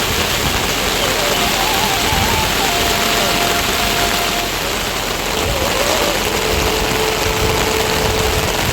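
Steady heavy rain, an even hiss, with a thin melody of held, stepping notes faintly over it.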